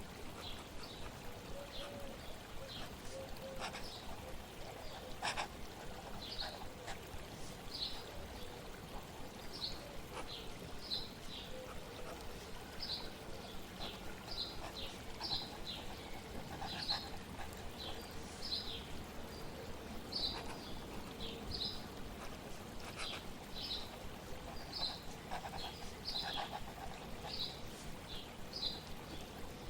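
Small bird chirping over steady flowing water: short high chirps, each a quick falling note, repeated about once a second. A few faint clicks, one about five seconds in.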